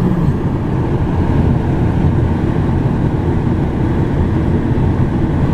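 Steady rumble of a car driving at road speed, with tyre and engine noise heard from inside the cabin.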